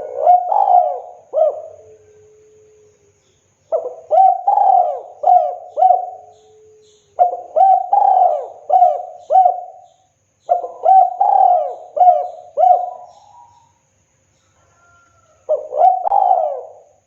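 Spotted dove (tekukur) singing its cooing song: five phrases a few seconds apart, each a quick run of four or five loud coos.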